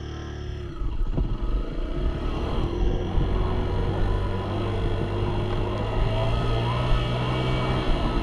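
Small dirt bike engine running as the bike is ridden, getting louder about a second in.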